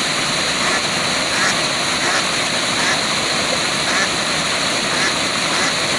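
Waterfall rushing steadily, with short animal calls repeating every half second or so over it.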